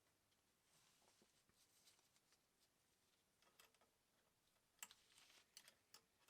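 Near silence, broken by faint scattered clicks and light taps, a quick cluster of them near the end.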